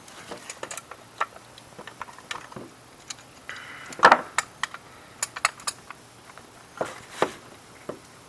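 Plumbing fittings being handled and fitted together: irregular small, sharp clicks and clatters of hard parts, with louder knocks about four and seven seconds in.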